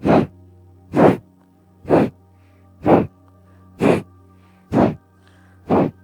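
Single-nostril Kapalabhati breathing: seven short, forceful exhalations snorted out through the left nostril, about one a second, over soft background music with a steady held drone.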